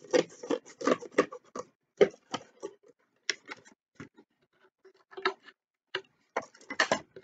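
Scissors snipping and trimming cardboard: a run of short, irregular clicks, busy at first, then sparser, with a quick cluster near the end.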